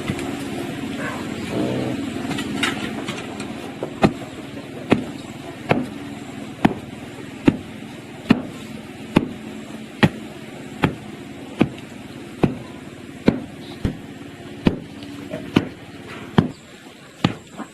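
Repeated sharp strikes of a hand tool, evenly paced at a little more than one a second, starting a few seconds in after a steady background rumble.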